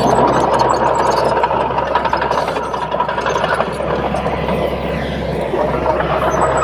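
Komatsu D31P bulldozer's diesel engine running steadily under working load, with faint metallic clinks from the machine.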